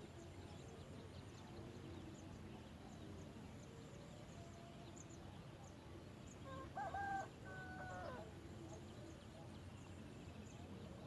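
A rooster crows once, a call of about a second and a half that breaks in the middle and drops in pitch at the end. Faint high chirps repeat throughout.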